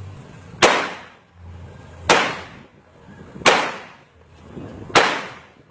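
Four revolver shots fired at an even pace, roughly one every second and a half, each a sharp crack that trails off in an echo.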